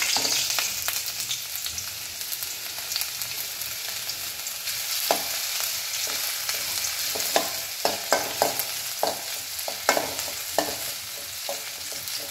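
Chopped ginger sizzling in a little hot oil in an aluminium kadai, loudest at the start and easing slightly. A steel spoon stirs and scrapes against the pan, with irregular knocks and clicks coming more often in the second half.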